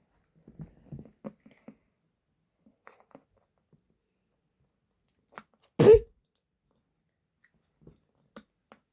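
A sleeping dog snoring and snorting: soft snuffles in the first two seconds, then one loud, short snort about six seconds in, with a few faint clicks near the end.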